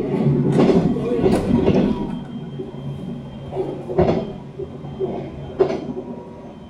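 Inside a Taiwan Railway EMU700 electric multiple-unit commuter car: steady running noise of the train with people's voices. It gets quieter about two seconds in, and two sharp knocks come later.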